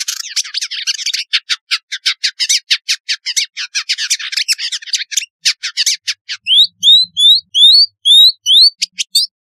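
Village indigobird singing: a fast run of dry, chattering notes, then a series of about seven loud rising whistles, about three a second, before the chatter starts again near the end.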